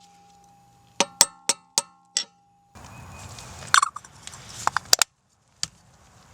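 Five quick, sharp metallic clinks with a short ringing tone, then a steady hiss with a few scattered clicks and knocks.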